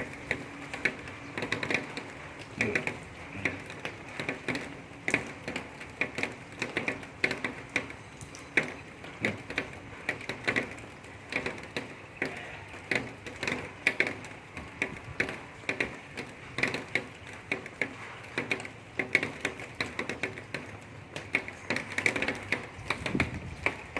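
Irregular sharp clicks and taps, several a second, going on without a break.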